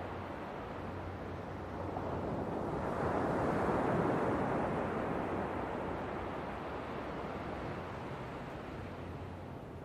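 Ocean waves surging and washing in, one swell building to its loudest about three to four seconds in, then slowly ebbing away.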